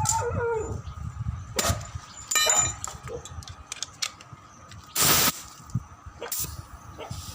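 Metal tools and parts clinking and knocking during truck tyre and tube repair, with one ringing metallic clink about two and a half seconds in and a short burst of air hiss about five seconds in.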